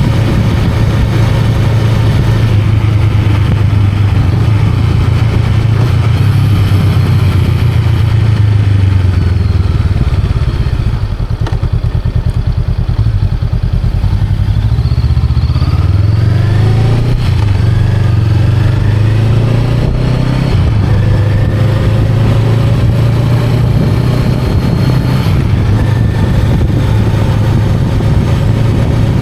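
Honda Rebel 500's 471 cc parallel-twin engine running while the bike is ridden. The engine eases off a little after ten seconds in, then pulls again with rising revs from about fourteen seconds.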